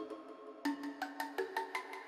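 Soft background music: a melody of light plucked or mallet-struck notes, a new note every half second or so.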